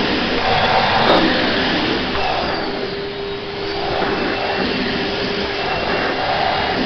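Vacuum cleaner running steadily, with a short click about a second in.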